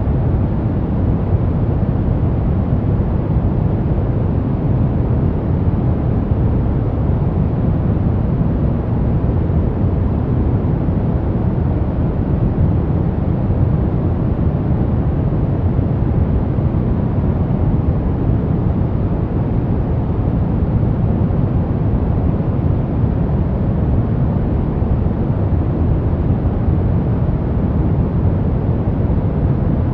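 Steady, deep, rumbling white noise for baby sleep, unchanging throughout, with most of its weight in the low end and little hiss on top.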